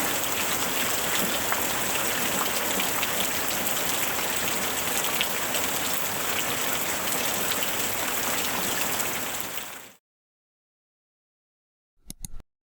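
Steady rain falling, with many individual drops ticking through it, fading out about ten seconds in. After a short silence, a brief burst of sound near the end.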